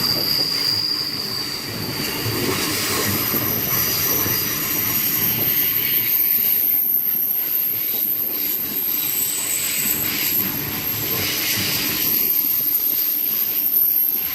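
The Indian Pacific passenger train rolling past, its steel wheels running on the rails in a continuous rumble, with high-pitched wheel squeal now and then.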